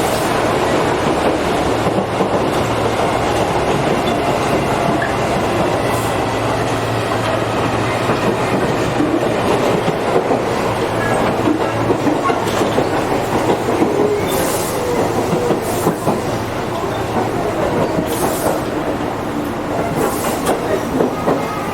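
Interior running sound of a Tobu 8000 series electric train slowing on the approach to a station: wheels clacking over rail joints under steady running noise with a low hum. Several short hissing bursts come in the second half.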